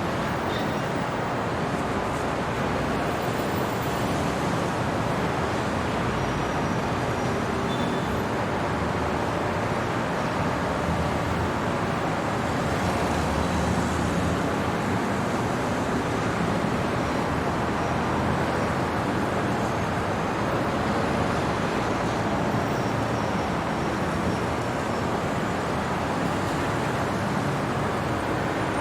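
Steady night-time city traffic ambience: a continuous wash of road traffic noise, with faint brief high tones here and there.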